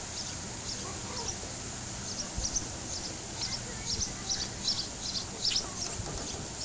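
Small birds chirping: many short, high chirps in irregular clusters, over a steady hiss.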